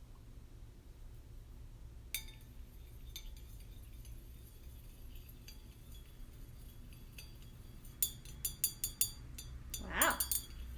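Small clinks against a drinking glass of water as paint is mixed in: a single clink about two seconds in, then a quick run of clinks near the end.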